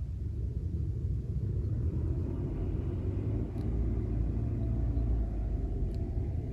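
A steady low rumble outdoors, with a faint hum that rises slightly in pitch through the second half and stops near the end.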